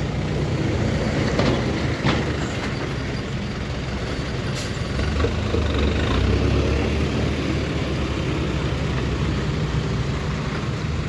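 Hino six-wheel dump truck's diesel engine running with a steady low rumble, growing louder in the middle as the truck comes closer, with a few sharp knocks.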